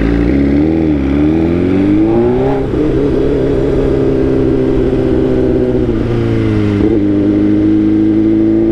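Motorcycle engine running under way, its pitch climbing over the first couple of seconds and then holding steady, with two brief dips near the end.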